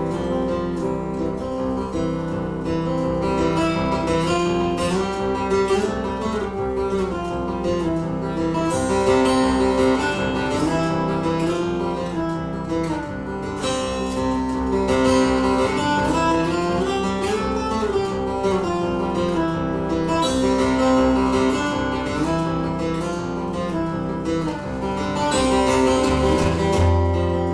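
Acoustic guitar played live in an instrumental passage. Dense picked and strummed notes run on, some of them bending in pitch.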